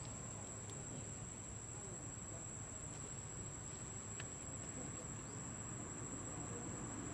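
An insect, cricket-like, sounding one steady, unbroken high-pitched tone over a low background rumble.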